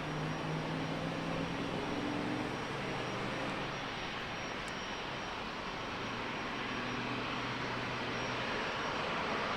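Jet airliner engines running, a steady rushing noise with a low hum, growing slightly louder near the end.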